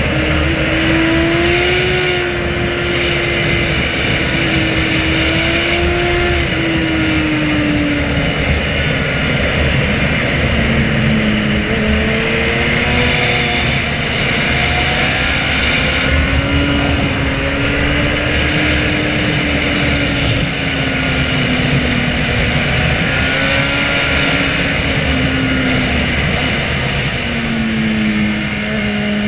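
Inline-four sport motorcycle engine running under way, its pitch swelling and easing slowly with the throttle, dropping lower near the end, over a steady broad rush of noise.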